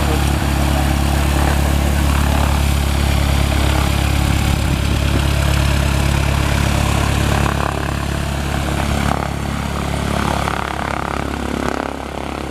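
Light single-engine Cessna's piston engine and propeller running steadily, loud at first, then growing fainter in steps from about halfway in.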